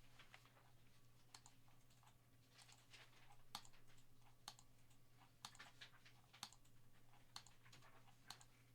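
Faint clicking at a computer, about one click a second, over a low steady hum, as a list randomizer is run again and again.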